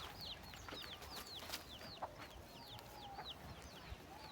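Faint bird chirping: a continuous run of short, high, falling chirps, several a second.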